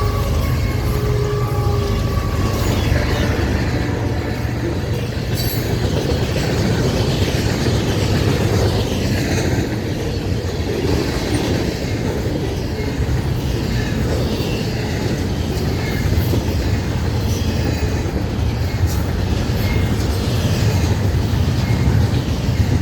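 Florida East Coast Railway freight train passing close by: a steady, loud rumble of rolling wheels on the rail with clattering from the cars. The tail of the locomotive's horn fades in the first couple of seconds.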